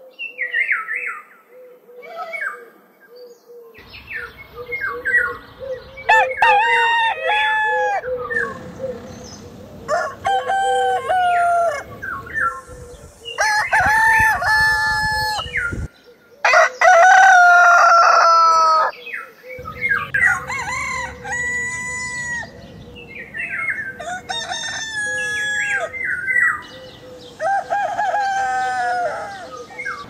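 Roosters crowing, about eight cock-a-doodle-doos one after another, with shorter calls in the first few seconds. The crows come from several recordings cut together, so the background noise changes abruptly between them.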